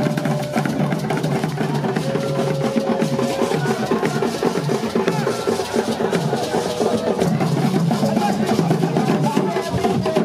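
Drum and percussion music playing a continuous, dense rhythm of fast strokes, with a few held pitched notes over it.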